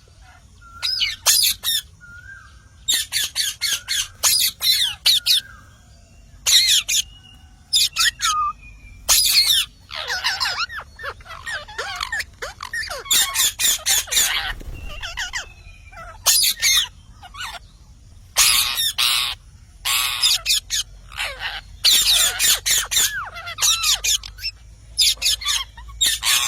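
Parrot squawking again and again in harsh calls, some coming in quick runs of short squawks, with a few thin gliding whistles in the first couple of seconds.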